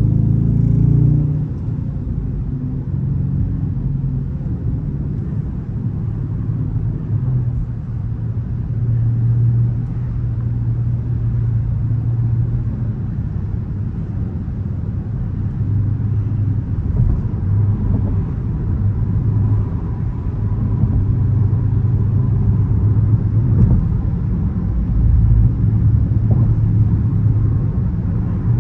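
Dodge Charger R/T's 5.7-litre HEMI V8 running under way with a low rumble and road noise. The engine eases off about a second and a half in, then builds louder again through the latter half.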